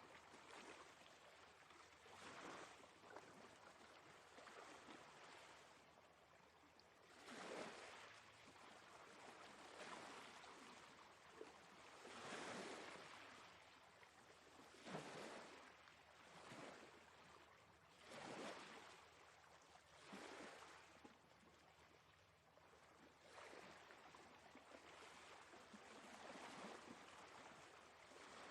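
Quiet sea waves washing in one after another, a fresh swell every two to three seconds.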